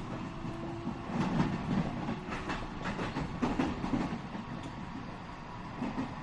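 Interior running sound of a JR West 207 series electric train car, its wheels knocking over rail joints in several clusters of clickety-clack with steady rumble underneath. A faint electric motor tone fades out within the first second.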